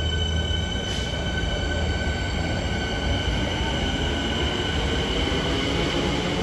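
A train running: a steady rumble with a thin, high whine over it that slowly falls in pitch.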